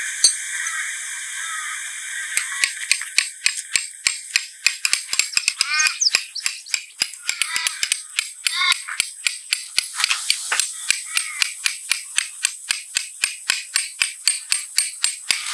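Rapid, regular light clicking, about four to five clicks a second, starting a couple of seconds in and running on steadily, with a few short chirps over it.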